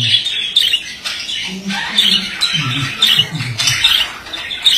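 Male budgerigar warbling: a run of short, sharp chirps and squawks, several a second, over a low, wavering, grumbling chatter.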